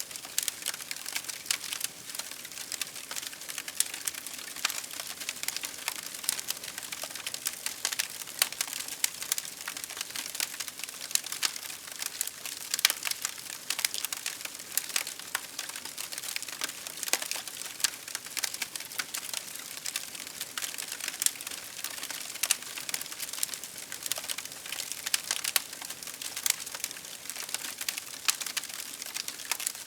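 Wood fire crackling steadily: a dense stream of sharp pops and snaps over a soft hiss.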